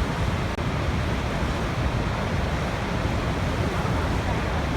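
Waterfall: falling water rushing steadily, a dense, even roar weighted toward the low end. There is a momentary dropout about half a second in.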